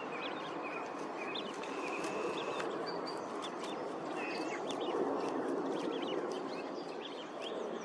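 Wild birds chirping and calling, many short overlapping notes with one longer held whistle early on, over a steady low rushing background noise.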